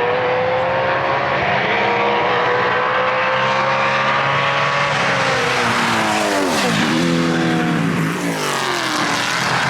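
1969 Chevrolet Camaro race car's 700 hp engine at full throttle, its pitch climbing slowly for about five seconds. The revs then drop and climb sharply twice, about six and a half seconds in and again near the end, as the car slows for corners and pulls away.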